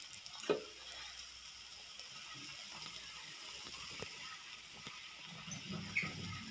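Parotta frying in oil on a dosa griddle: a steady sizzling hiss, with a short knock about half a second in and another near the end.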